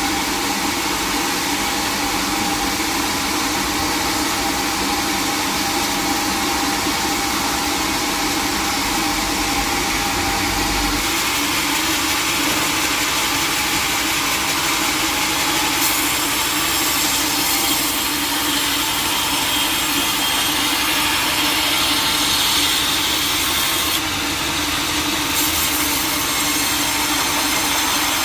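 Sawmill saw running steadily while it cuts teak wood, a loud, even machine noise whose tone shifts slightly a few times.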